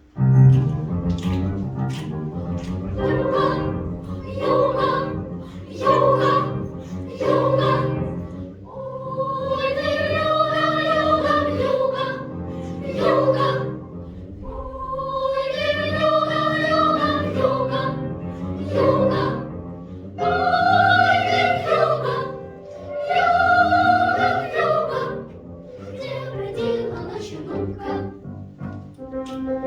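Children's choir singing with piano accompaniment. The first eight seconds or so are short detached notes, and after that come long held sung notes in rising and falling phrases.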